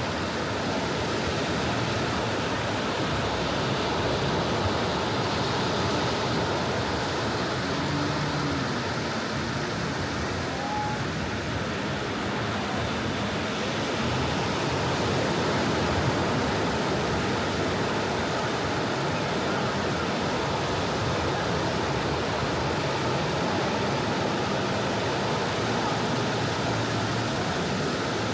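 Soft ocean waves washing onto a beach: a steady hiss of surf that swells and eases gently, with no single wave standing out.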